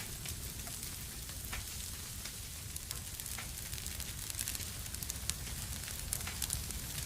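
Wood fire burning in a fireplace: a steady low rumble and hiss with scattered sharp crackles and pops, which come more often in the second half.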